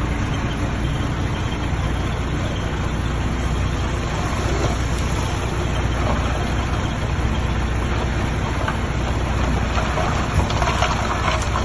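Heavy diesel engine of construction machinery running steadily, with a few short knocks near the end.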